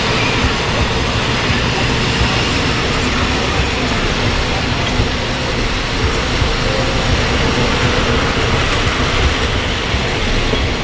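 Diesel-electric locomotive-hauled train at the station, a steady, even rumble and rail noise with no sharp knocks or breaks.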